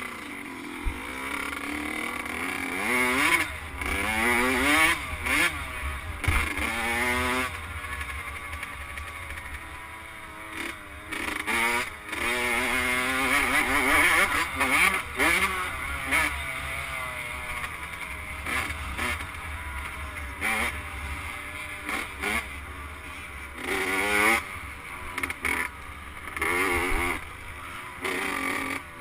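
Motocross dirt bike engine revving up and easing off again and again through a lap, its pitch climbing on each pull and dropping at each shift or roll-off, over a low wind rumble on the on-board camera's microphone.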